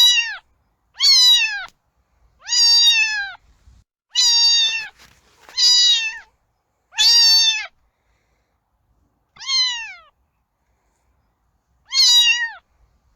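Domestic cat meowing repeatedly, about eight separate meows, each dropping in pitch at its end, with a longer pause in the second half.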